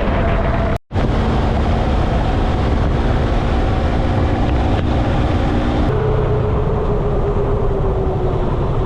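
Yamaha MT-03 motorcycle engine running at road speed with wind rushing over the helmet- or bike-mounted GoPro microphone. The sound drops out for an instant just under a second in, and about six seconds in it changes abruptly to a lower, slowly falling engine note.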